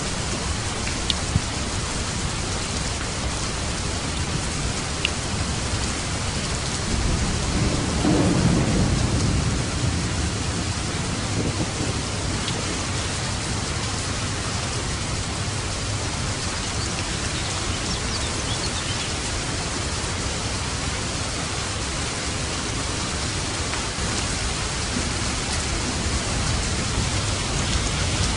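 Steady heavy rain falling on a roof, with a roll of thunder rumbling up about eight seconds in and fading over a few seconds, and a lighter rumble near the end.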